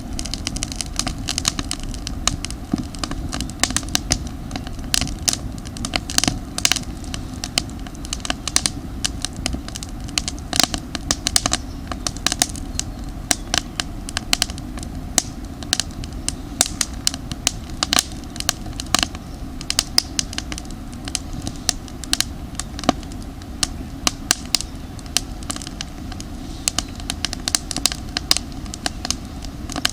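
Campfire of damp firewood crackling, with many sharp, irregular pops and snaps over a steady low rumble.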